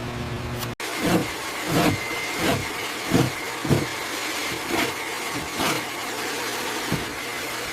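A steady mechanical hum cuts off just under a second in. It gives way to a run of about eight irregular knocks or thumps, roughly half a second to a second apart, over a steady mechanical background, with a thin high tone coming in about two seconds in.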